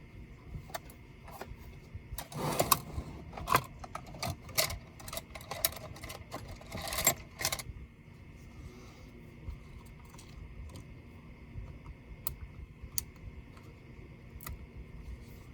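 Clicks, taps and light rattles of a laptop's plastic and metal parts and small tools being handled while it is taken apart, busy for several seconds and then dropping to a few faint ticks.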